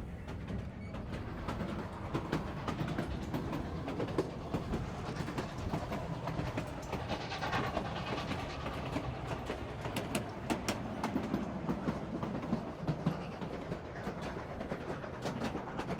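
Narrow-gauge train cars rolling along the track, heard from inside: a steady rumble with many irregular clicks, knocks and rattles. It grows brighter and louder for a moment about halfway through.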